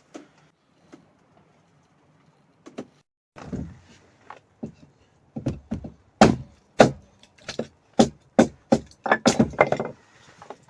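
Irregular sharp wooden knocks and cracks from firewood being worked by hand, starting about a third of the way in and coming faster and louder toward the end.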